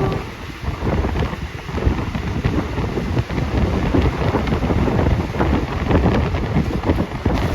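Wind buffeting the phone's microphone: a loud, uneven low rumble that flutters throughout.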